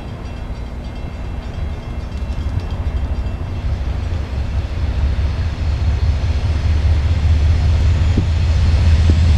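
Norfolk Southern coal train's diesel locomotives approaching: a low rumble that grows steadily louder.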